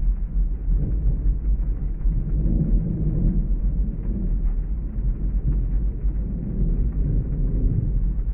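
Heavy rain with a continuous low rumble of thunder that swells about a third of the way in.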